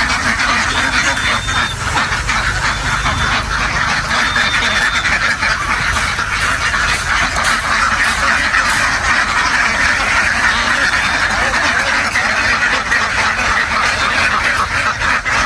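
A very large flock of domestic ducks quacking all at once, a dense, continuous clamour of overlapping calls.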